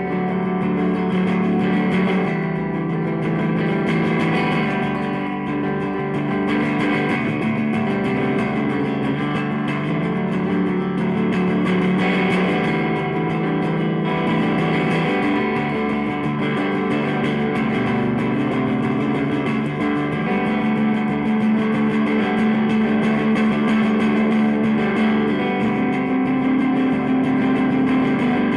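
Electric guitar with Lindy Fralin Broadcaster pickups, both pickups mixed, played through a Fender Blues DeVille 212 tube combo amp: continuous playing with some notes held for several seconds.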